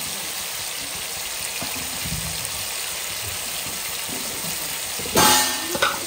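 Chicken pieces frying in hot oil in a pan, with a steady sizzle. About five seconds in there is a sudden loud burst that fades over half a second, then a couple of smaller knocks.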